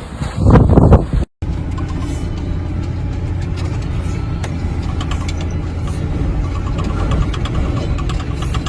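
Wind gusting hard against the microphone for about a second. After an abrupt cut, a car engine runs steadily with a low hum and some faint ticks.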